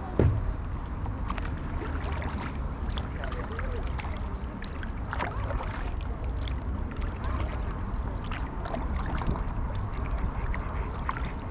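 Ducks quacking over a steady low rumble of wind and water, with a single thump just after the start.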